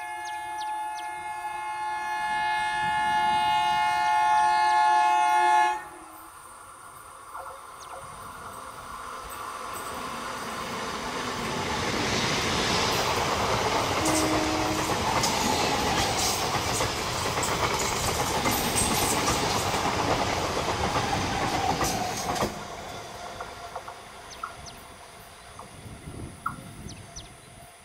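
A local passenger train sounds a long horn of several steady tones that grows louder for about six seconds and cuts off suddenly. The train then passes with a rising rush and wheels clattering over the rail joints, loudest in the middle, dropping away and fading near the end.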